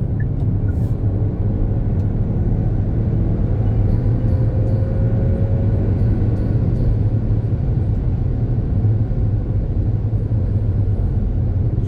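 Steady low rumble of a car driving: engine drone and tyre and road noise heard inside the cabin.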